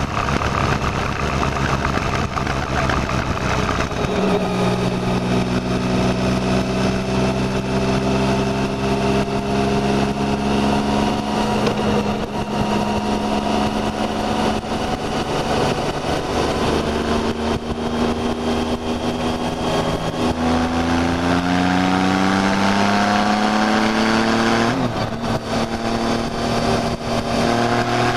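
Motorcycle engine under way, with wind rush over the microphone. The engine note holds fairly steady for a long stretch, then climbs for several seconds as the bike accelerates, drops abruptly with a gear change near the end, and starts climbing again.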